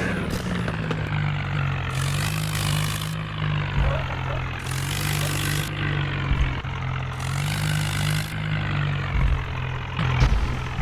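Tractor engine running steadily with a low, wavering hum, with a singing voice over it in stretches.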